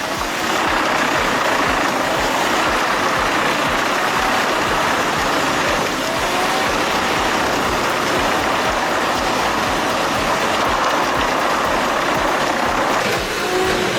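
Engine of a heavy wood-processing machine running steadily with a dense, even noise, dipping briefly near the end.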